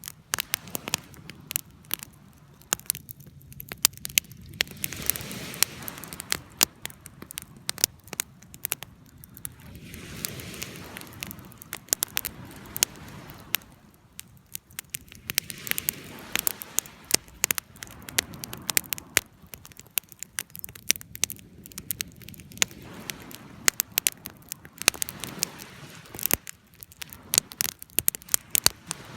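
Wood fire burning: irregular sharp crackles and pops over a soft hiss that swells and fades every few seconds.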